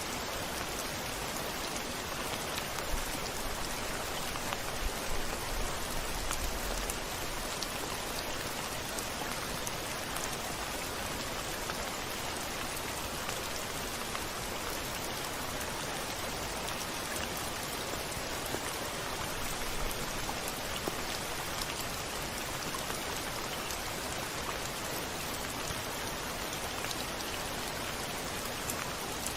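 Steady heavy rain with drops pattering on a window pane, scattered individual drop ticks throughout. A low rumble rises a few seconds in and fades out.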